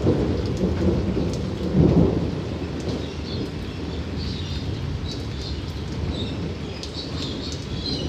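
Thunder rumbling over steady rain. The rumble is heaviest in the first two seconds, swells once about two seconds in, then dies away and leaves the rain hissing.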